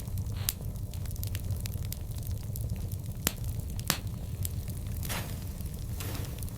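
Burning wood fire crackling, with frequent small snaps over a low steady rumble and two louder pops a little past the middle.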